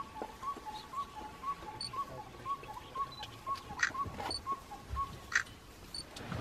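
A bird calling a steady series of short, even whistled notes, about two a second, that stops about five seconds in. A few faint high chirps and scattered soft clicks sound alongside.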